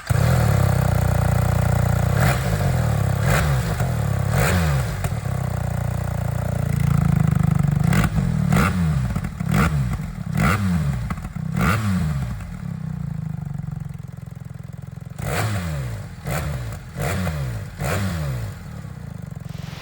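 BMW R 1300 GS Adventure's boxer twin running through a Jekill & Hyde Nomad S exhaust with its valve open, revved again and again so the pitch rises and falls repeatedly. Sharp pops and crackles sit among the revs. The sound dips partway through and builds again.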